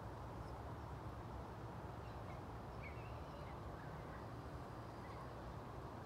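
A few faint bird chirps about two to three seconds in, over a steady low outdoor rumble.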